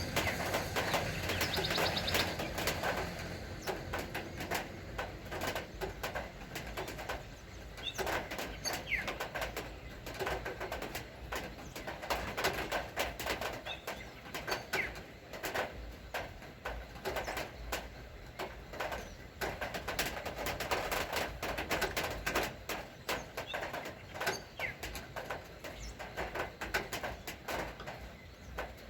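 Rain falling, with irregular drops ticking densely throughout, and birds calling now and then over it.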